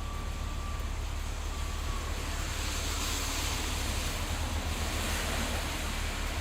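Steady low rumble and road noise of a moving vehicle, with a swell of hiss through the middle.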